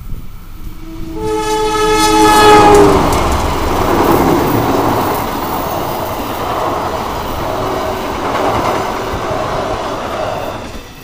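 Indonesian diesel-electric passenger train passing close by at speed: the locomotive's horn sounds a multi-tone chord for about two seconds a second in, dropping slightly at its end, then the loud rumble and clatter of the coaches on the rails, dying away near the end.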